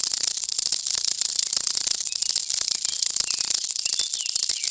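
Running water spraying onto a plastic toy figure as it is rinsed clean, a steady crackly hiss.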